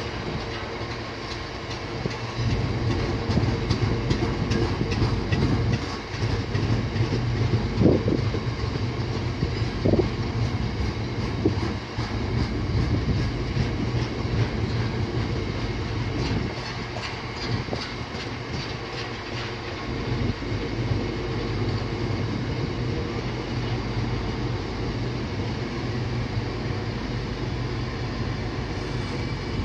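Freight train of covered hopper wagons rolling past: a steady rumble of wagon wheels on the rails with repeated clicks over the rail joints, and a few louder knocks about 8 and 10 seconds in.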